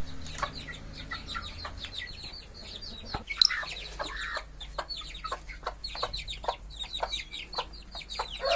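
Aseel chicks peeping: many short, falling calls in quick succession, overlapping, over a low steady hum.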